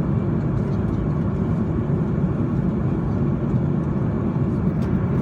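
Steady low rumble of jet engines and rushing air heard inside the cabin of an Airbus A330-200 airliner in flight.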